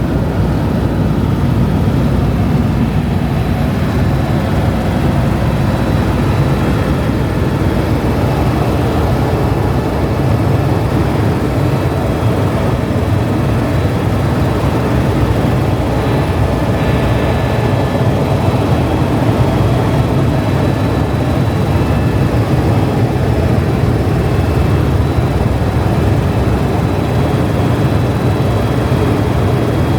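Tour helicopter's turbine engine and rotors running steadily: a loud, even drone with a faint high whine over it.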